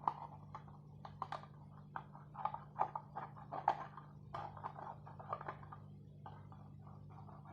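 Faint, irregular light clicks and crinkles of a plastic water bottle being handled while a chopstick is pushed through holes drilled in it, over a steady low hum.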